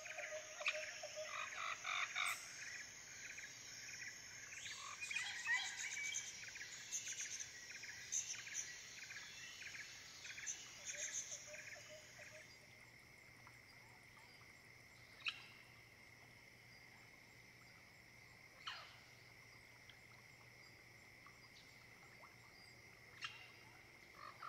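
Faint night-time ambience of chirping insects and animal calls. About halfway through the busy chirping thins out, leaving one steady high insect trill broken by three short single calls.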